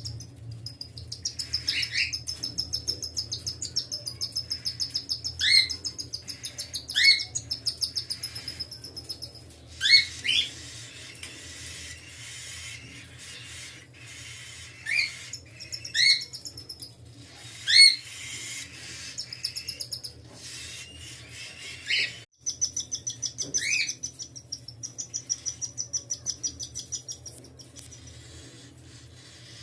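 Cockatiels calling: long runs of fast, evenly repeated high peeping, broken by short upward-sweeping chirps every second or two.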